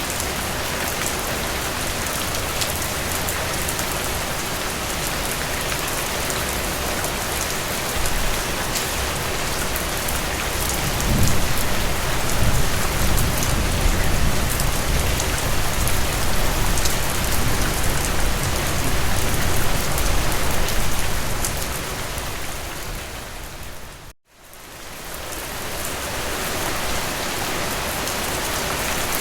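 Steady rain falling, an even hiss of many drops. A low rumble swells under it partway through. About five seconds before the end the whole sound fades down to silence for an instant and swells back up.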